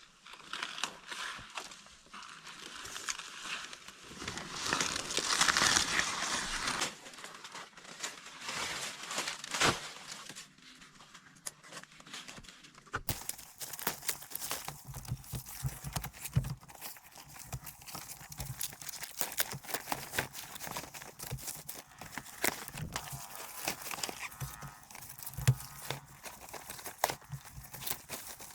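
Dry plant material rustling and crackling as it is handled, with many small clicks. About halfway through, the sound changes to sharper clicks and knocks with low thumps.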